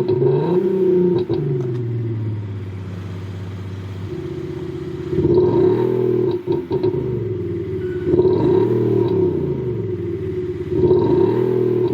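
Kia K5 (DL3) revved in four short blips from idle, its exhaust note voiced through a JSR Soribak electronic sound booster. The pitch rises and falls back each time, with sharp pops as the revs drop about a second in and again past the middle.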